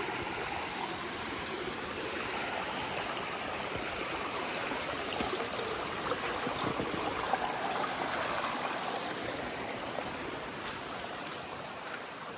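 Water of a fast-flowing stream rushing over rocks, a steady dense rush that fades a little towards the end.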